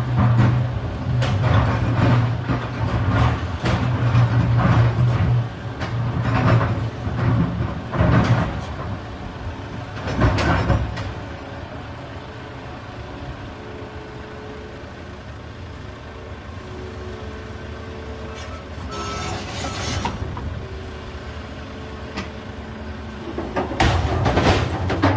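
Volvo EC380EL excavator's diesel engine working hard while loading rocks, with a string of loud clattering impacts in the first ten seconds and again near the end. In between the engine runs quieter, with a faint steady whine.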